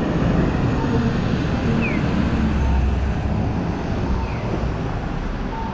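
Street traffic noise, steady and strongest in the low rumble, with a short falling chirp repeating about every two and a half seconds.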